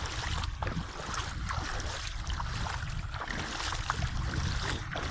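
Small waves of shallow seawater lapping and splashing with many little irregular crackles, under a steady low rumble of wind on the microphone.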